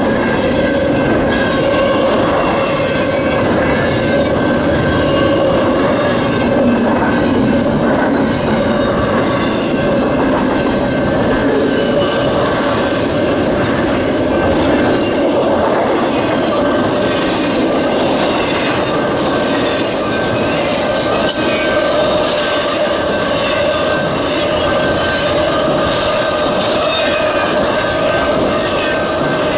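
Freight train cars rolling steadily past, wheels on rail with a constant squeal.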